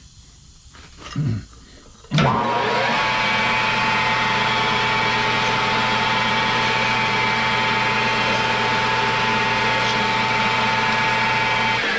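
Metal lathe's electric motor spinning up about two seconds in with a rising whine, running steadily with a strong hum, then winding down near the end, while a valve stem is brought to size.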